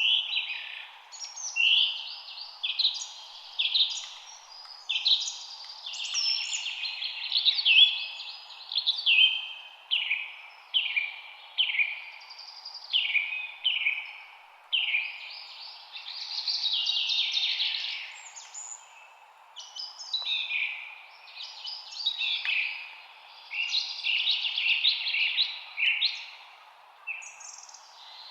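Several songbirds singing and chirping at once, a dense chorus of quick, overlapping song phrases with many short falling notes, over a faint steady background hiss.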